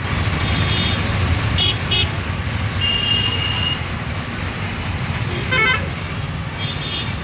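Steady low rumble of road traffic with several short high-pitched toots over it, one held for about a second.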